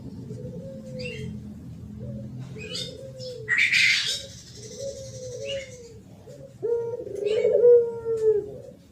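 Spotted dove cooing in the 'thổ pháp' style, the kind of call used to lure wild doves: a run of short low coos, then a longer, louder coo near the end. Higher chirps of small birds sound over the coos, with a brief hissy rush about halfway.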